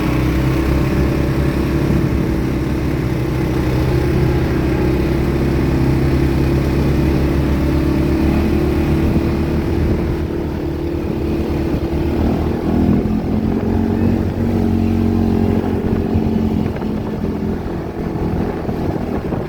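ATV engine running while riding, steady and loud, its pitch shifting about two-thirds of the way through as the speed changes.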